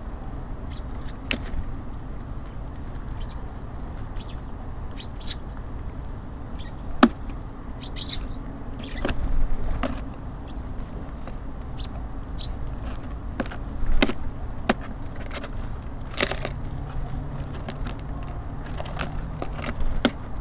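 Small birds at a feeder: scattered sharp taps and clicks as they land and peck, with brief high chirps, over a steady low rumble of city traffic. A vehicle's engine hum comes in about three quarters of the way through.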